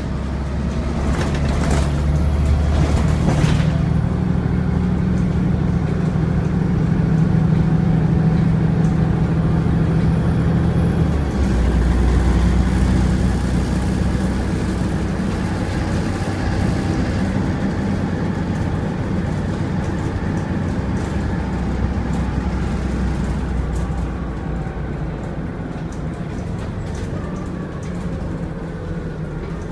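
Volvo B7TL double-decker bus's diesel engine pulling under load with a faint high turbo whistle. The engine note shifts about a third of the way through, as with a gear change, and a few sharp clicks come in the first few seconds.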